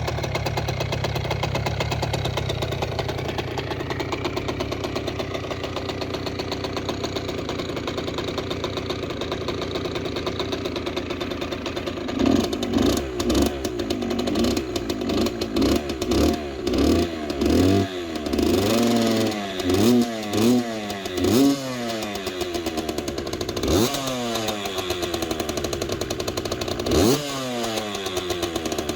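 Kawasaki KX65 two-stroke single-cylinder engine idling steadily, then revved in a rapid series of short throttle blips from about twelve seconds in, with two separate longer revs near the end.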